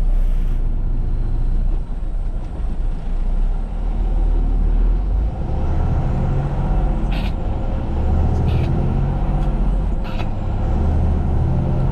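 Semi truck's diesel engine running as the truck pulls out, a steady low rumble, with three brief hisses about 7, 8.5 and 10 seconds in.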